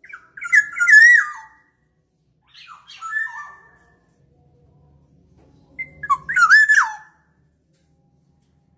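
Black-naped oriole calling: three squawking call phrases mixing harsh notes with clear whistled notes that jump in pitch, the third after a pause of a couple of seconds.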